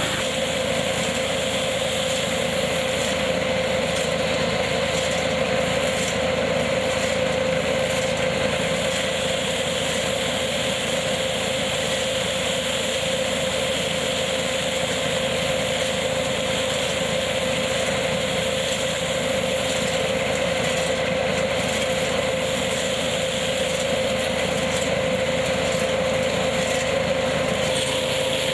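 Tractor-driven hazelnut harvesting machine running steadily, a constant mechanical noise with a steady hum.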